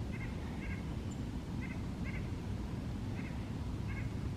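A bird calling in short paired notes, about one pair every second and a half, over a low steady rumble.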